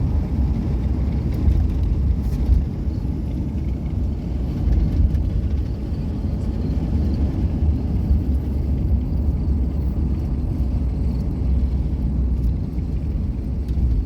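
Steady low rumble of a car being driven, road and engine noise.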